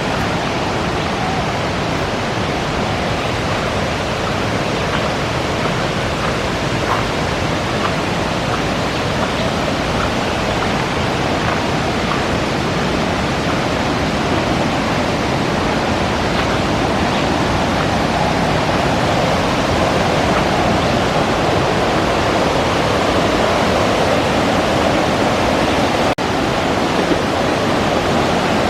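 Rushing water of a river waterfall: a loud, steady roar of falling and splashing water that cuts out for an instant near the end.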